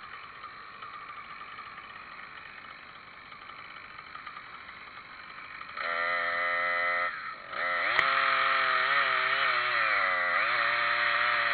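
Two-stroke chainsaw engine running, fainter for the first half. About six seconds in it gets much louder, and its pitch dips and rises as the throttle is worked. There is a sharp click about eight seconds in.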